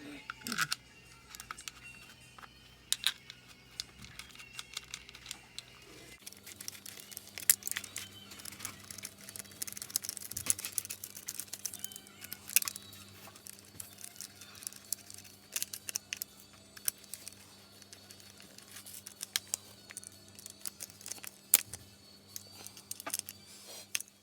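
Irregular clicks and light rattles of hand work on small parts, over a faint steady hum; the hum changes abruptly about six seconds in.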